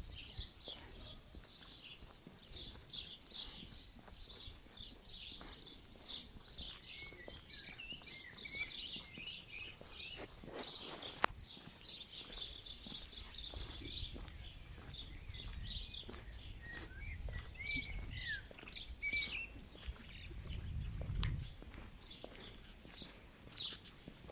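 Birds singing: a dense run of quick, high chirps, with a few lower whistled phrases mixed in. A faint low rumble rises in the second half, and there is a single sharp click about eleven seconds in.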